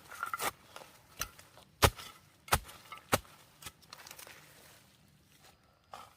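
About six sharp chopping strokes, one every half-second or so, as a blade bites into wood. They stop about four seconds in.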